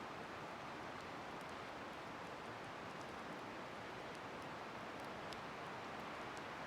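Wood bonfire burning: a steady hiss with faint, scattered small crackles.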